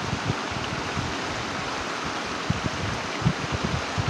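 Rushing floodwater: a steady hiss of flowing water, with scattered low thumps.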